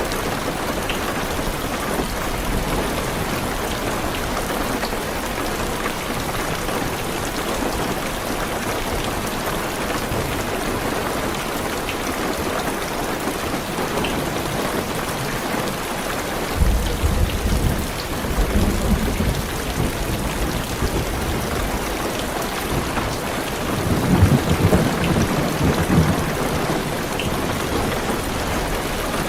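Heavy rain falling steadily on a car's roof and windows, with two low rumbles of distant thunder, one beginning a little past halfway and a second, louder one a few seconds before the end.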